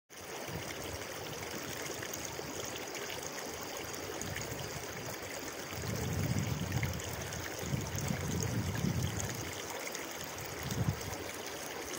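Steady rushing of running stream water, with stretches of low rumbling from about six to nine and a half seconds in.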